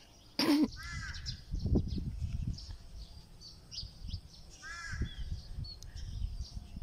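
Birds calling outdoors: two short harsh calls, about a second in and again about five seconds in, over scattered faint high chirps of small birds. A brief loud bump comes about half a second in, with a low wind rumble on the microphone.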